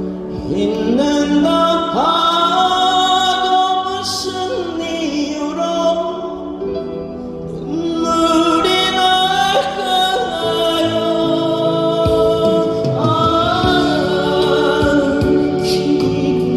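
A solo singer performing a Korean ballad over backing music, holding long notes with vibrato. The sung phrases dip briefly about seven seconds in and again around twelve seconds.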